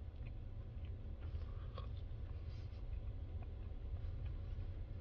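Faint chewing of a bite of apple-and-brie stuffed chicken breast, with a few soft mouth clicks over a low steady hum.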